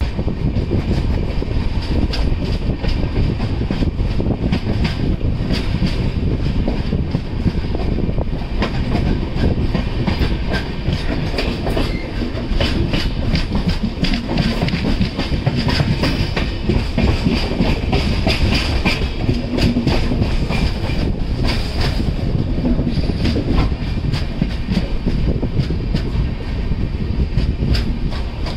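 Passenger express train running along the track, heard at an open coach door: a steady rolling rumble with the frequent clickety-clack of wheels over rail joints and a constant rush of air.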